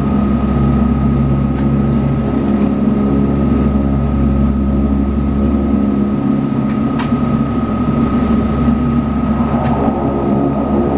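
Cabin drone of a Saab 340B's twin General Electric CT7 turboprop engines running steadily: a low hum of stacked steady tones with a steady high tone above it, and a few faint clicks.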